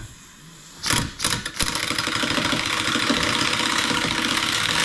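Power impact wrench hammering on a rusted, seized exhaust manifold bolt: two short blips about a second in, then a steady rapid rattle for about three seconds.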